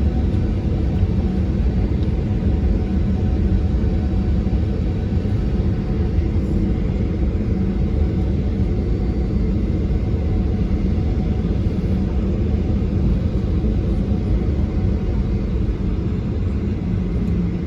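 Steady low rumble of a Boeing 737-800's CFM56 jet engines and airflow, heard inside the passenger cabin, holding an even level throughout.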